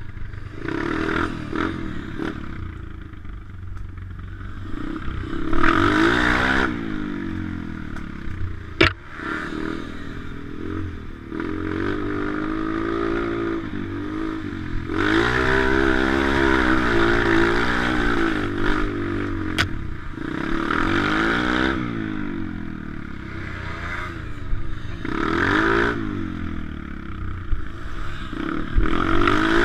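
Pit bike engine being ridden hard, revving up and falling back again and again as the rider works the throttle and gears, with rattling and clatter. There are two sharp knocks, one about nine seconds in and one about twenty seconds in.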